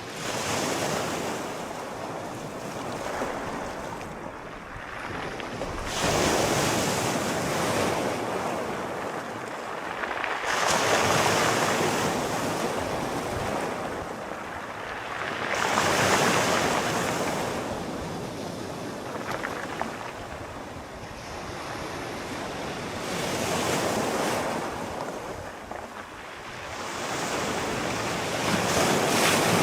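Sea waves breaking and washing ashore in slow, rolling surges, each rising and falling away every four to five seconds, with some wind noise on the microphone.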